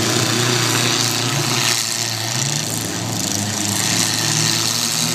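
Demolition derby car engines running and revving, their pitch rising and falling, over a steady loud hiss.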